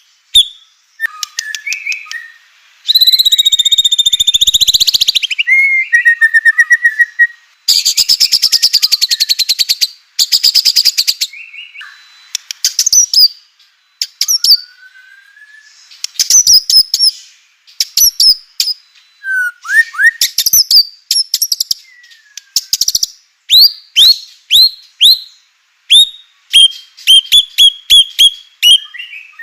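White-rumped shama (murai batu) in full song: a varied run of clear whistles and gliding notes, broken by long, fast rattling trills.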